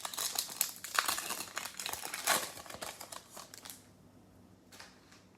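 Foil wrapper of a 2020 Panini Select football card pack crinkling and tearing as it is opened and handled, for about four seconds, then a brief rustle near the end.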